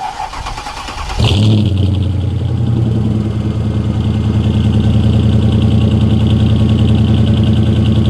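Car engine cranked by the starter for about a second, then catching with a sudden rise in level and settling into a steady idle.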